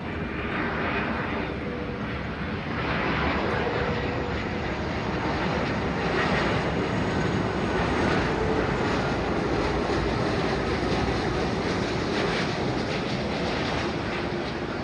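Jet engines of an Airbus A330-300 airliner running with a steady rush and rumble that grows louder about three seconds in and eases near the end.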